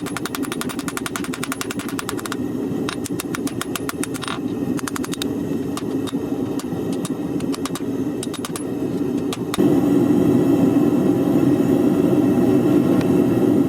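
A forge running with a steady rushing noise that steps up louder about two-thirds of the way through. A fast run of faint sharp clicks over it in the first couple of seconds, then scattered clicks.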